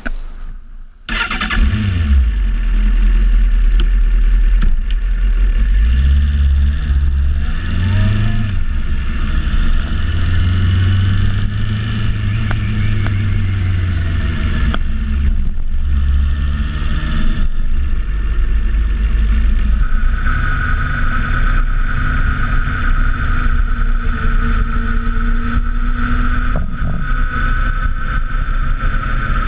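Motorcycle engine running loud as the bike sets off from about a second in, its note rising in steps as it accelerates through the gears, with heavy wind and road noise over the microphone.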